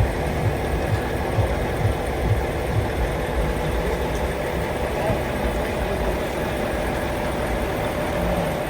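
1964 Scania Vabis L56 truck's diesel engine running steadily, a low even chugging with no revving.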